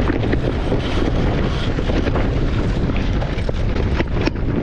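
Strong wind buffeting the microphone, a loud steady rumble with a few short sharp knocks scattered through it.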